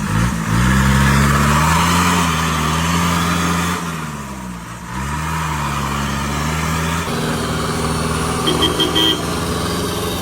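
Off-road vehicle engine running hard at high revs. Its pitch dips briefly in the middle and climbs back, and a few short high beeps sound near the end.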